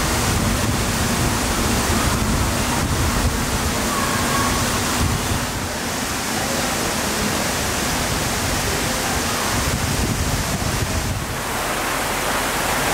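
Steady rushing and splashing of water from water-park slides and water features, loud and even throughout.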